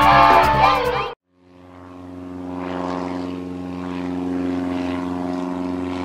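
Background music cuts off about a second in, and the steady drone of a cartoon propeller plane's engine fades in and holds.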